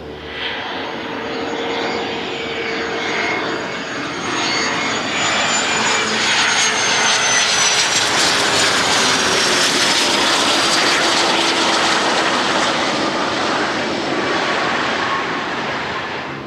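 Embraer Phenom 300 business jet's twin turbofan engines passing on its landing approach: a roar that builds to its loudest in the middle and eases off near the end, with a high whine that slides slowly down in pitch as the jet goes by.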